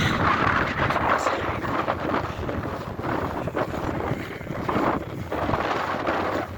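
Wind buffeting the microphone: a continuous rumbling rush that swells and dips with the gusts.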